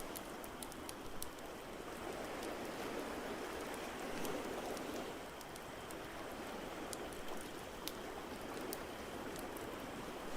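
Ocean waves washing in, swelling and easing every few seconds, with the sharp, irregular pops and snaps of a crackling wood fire over them.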